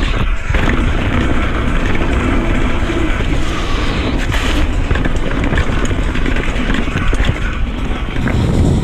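Mountain bike rolling fast down a dirt trail: a steady rush of wind on the microphone and tyre noise, with the odd sharp knock or rattle from the bike over bumps, one about four seconds in and another about seven seconds in.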